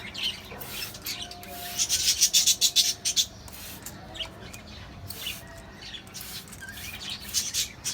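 A pet parrot at its bath: a run of rapid, short noisy bursts, loudest about two to three seconds in, with scattered chirps.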